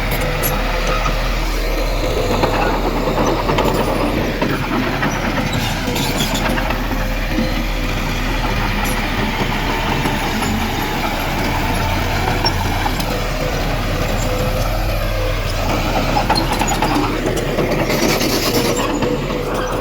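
Heavy diesel earthmoving machinery running steadily, with a short hiss near the end.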